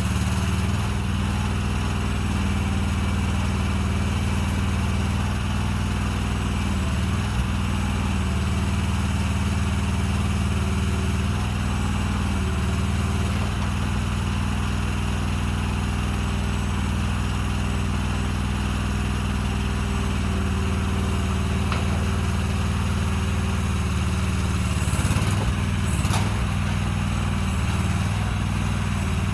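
An engine running steadily at an even speed, with a couple of short knocks near the end.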